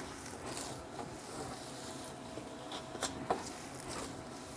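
Hands kneading stiff flour dough in a bowl: faint rubbing and squishing, with a couple of small knocks about three seconds in.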